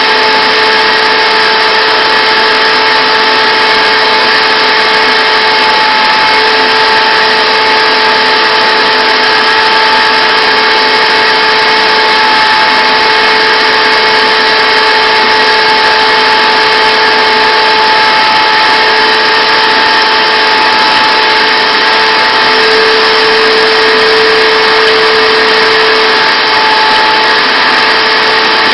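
Shop vac running loud and steady, drawing air through a homemade cyclone dust separator and hose, with a constant whine and a lower tone that wavers a few times.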